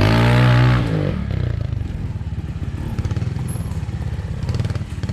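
Trials motorcycle engine revved hard for about a second, its pitch dropping back as the throttle closes, then running at low revs with a fast, steady beat.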